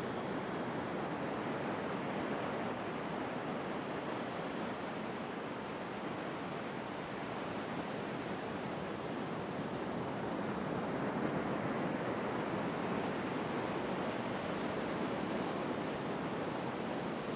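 Ocean surf washing on a beach: a steady rushing noise that swells and eases only slightly.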